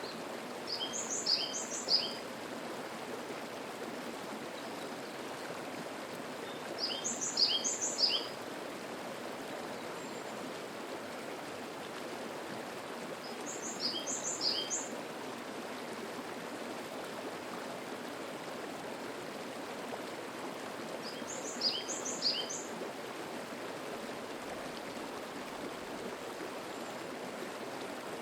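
Mountain stream babbling steadily over rocks, with a songbird repeating a short song of high, quick notes four times, about every six to seven seconds.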